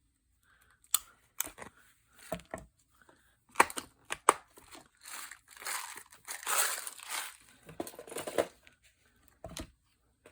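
Paper crinkling and rustling as it is handled, with a few sharp taps and clicks in the first few seconds and another near the end.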